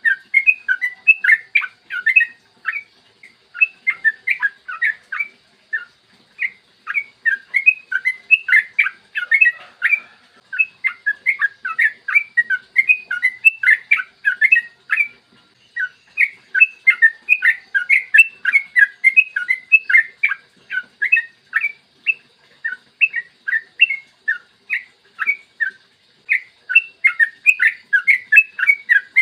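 Yellow-vented bulbul (trucukan) singing long runs of quick, bubbling chattering notes, phrase after phrase with only brief pauses. A faint steady high tone sits underneath.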